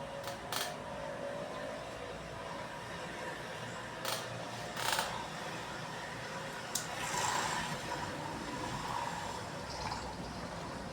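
Hand-work noises from reassembling a motorcycle fuel injection pump: several sharp clicks and knocks of parts and tools over a steady background hiss, with a short rushing hiss about seven seconds in.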